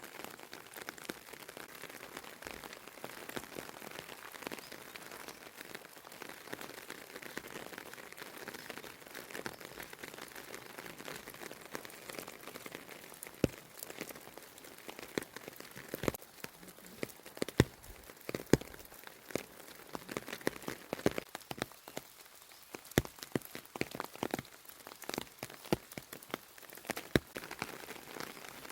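Rain falling, a steady patter with, from about halfway through, many loud single drops striking a surface in sharp, irregular taps.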